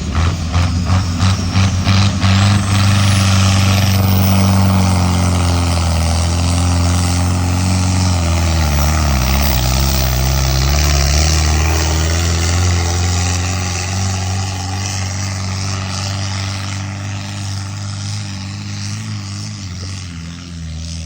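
Tractor engine running hard at full throttle as it pulls the weight sled. Its pitch sags about nine seconds in and comes back up, and the engine slowly fades over the last several seconds.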